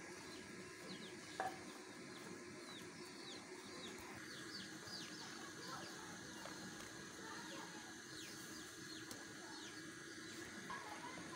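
Birds chirping: many short, high, quick falling chirps scattered throughout, over a faint steady hum. A single sharp click about a second and a half in.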